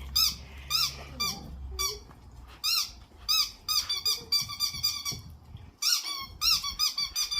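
Rubber squeaky dog toy squeaking over and over in quick irregular runs as puppies bite and chew it, each squeak short and high-pitched, with a brief pause near the end.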